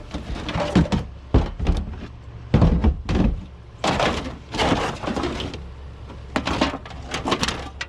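Hands rummaging through a pile of trash: items being shoved and dropped, with a string of irregular thunks, knocks and rustling.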